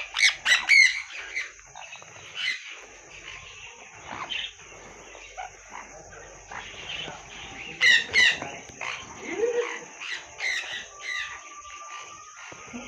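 Many small cage birds in an aviary calling: a burst of quick, harsh squawks and chirps at the start and another about eight seconds in, with softer chirping in between, over a steady high hiss.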